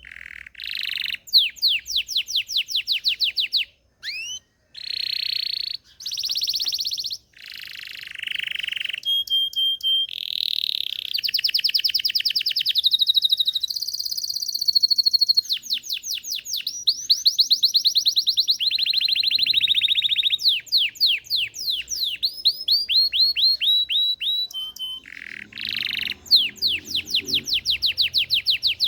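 A Belgian canary singing: a long song of fast rattling trills, rolls and short held whistled notes, changing phrase every second or two with brief pauses between phrases.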